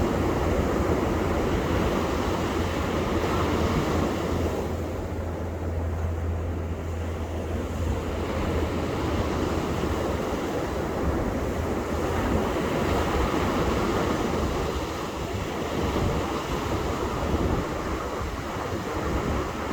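Ocean surf washing onto a beach in a continuous wash of breaking waves, with wind buffeting the microphone as a low rumble.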